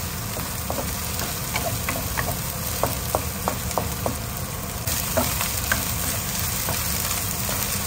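Spice paste of lemongrass, shallots, garlic, chillies and turmeric sizzling in hot oil in a nonstick wok, stirred with a wooden spatula that taps and scrapes against the pan with short clicks every so often.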